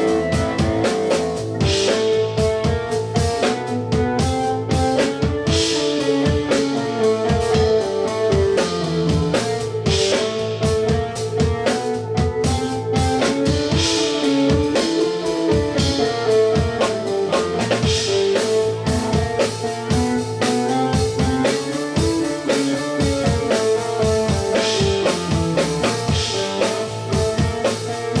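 Live band playing an instrumental piece: guitar and drum kit over a steady held drone note, with a winding melody moving above it.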